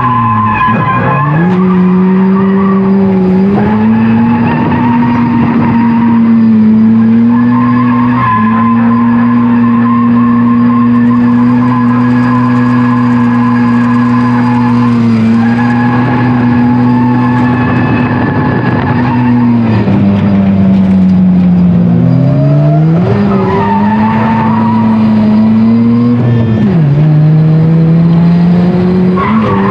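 Mazda FC RX-7's naturally aspirated 13B two-rotor engine held high in the revs while drifting, with tires squealing and skidding. The engine note holds steady for long stretches, drops about two-thirds of the way in, then climbs and falls twice near the end.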